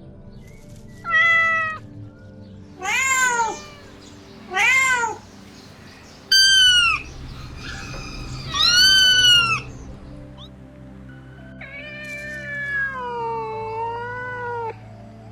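Kitten meowing: five short, high meows about every two seconds, then one longer drawn-out meow that wavers and falls in pitch.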